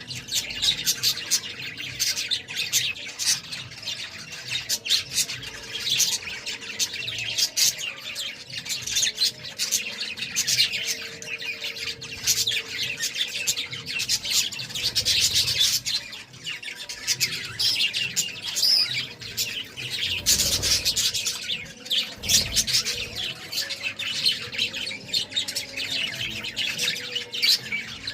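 Several budgerigars chirping continuously, many quick overlapping chirps. There are two brief low thuds about two-thirds of the way through.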